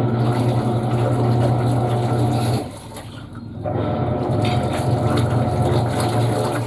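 Panasonic washing machine's motor turning the drum in bursts, with water sloshing: a steady hum for about two and a half seconds, a pause of about a second, then the hum again. This is the on–pause–on rhythm of a wash agitation cycle.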